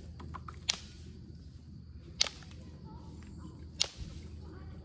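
Onondaga chert being knapped: three sharp cracks about a second and a half apart, with a few fainter clicks between them.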